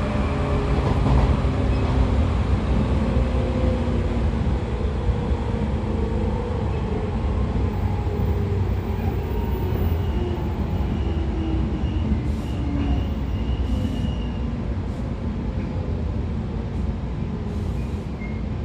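Interior running noise of a 113 series 5700 subseries electric train's motor car: MT54 DC series-wound traction motors whining under a heavy rumble of DT21B bogies on the rails. The motor tones drift slowly lower in pitch.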